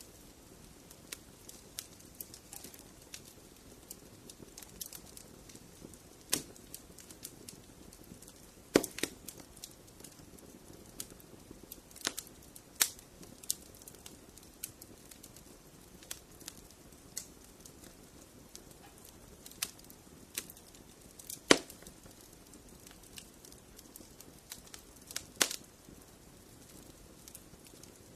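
Wood fire crackling in a fireplace: a soft low hiss of burning with scattered sharp pops and snaps, a few much louder cracks standing out.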